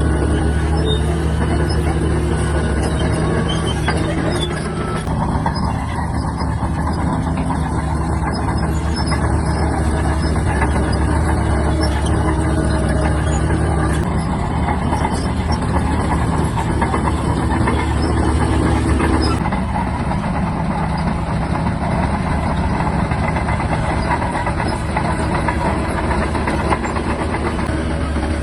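Diesel engine of a Shantui DH17-C3 crawler bulldozer running steadily while it works the dirt, its character shifting about five seconds in and again near twenty seconds.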